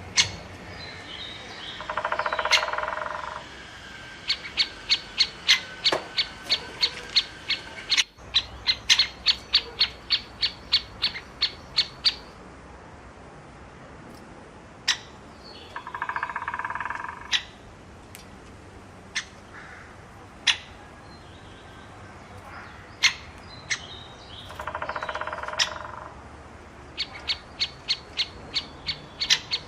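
Bird calling: runs of sharp, short notes, about three or four a second, broken three times by a harsh buzzy call about a second long.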